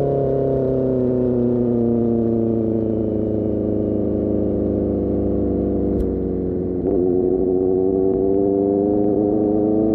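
Superbike engine through an Austin Racing GP1R exhaust, its pitch falling slowly as it decelerates. About six seconds in there is a click and a brief drop in level, then it pulls again with the pitch climbing steadily.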